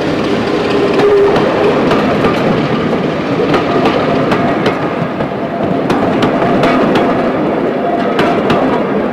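Passenger coaches rolling past at close range, their wheels clicking over the rail joints in a steady clickety-clack. The sound begins to fall away at the very end as the last coach passes.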